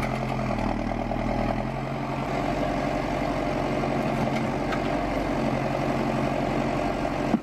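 T-150 tractor engine in a custom-built wood-harvesting tractor running steadily at idle.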